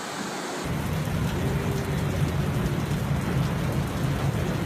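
Storm noise: heavy rain with a deep, steady rumble underneath, which sets in abruptly about half a second in.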